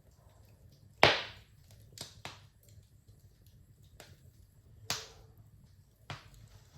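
Wood fire in a fireplace crackling: six sharp pops spread irregularly, the loudest about a second in, over a faint low rumble of the burning fire.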